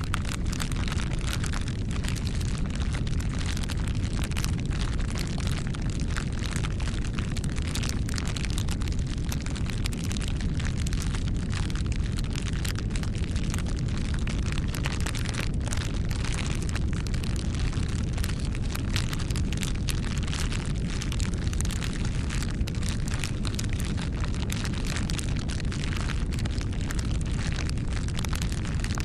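Campfire burning, with a steady low rumble of the flames and frequent irregular crackles and pops of the burning wood.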